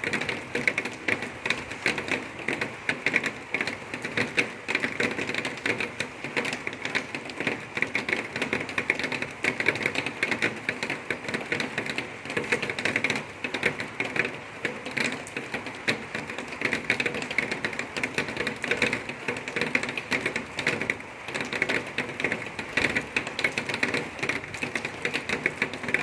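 Well-drilling rig working as drill pipe goes down the bore: a steady, fast, dense clatter with no let-up.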